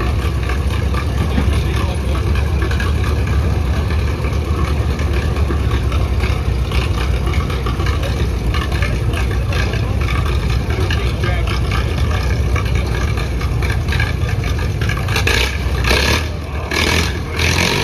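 Antique farm tractor engine running hard under load, pulling a weighted sled down the track, with a steady low drone. A few sharp crackles come near the end.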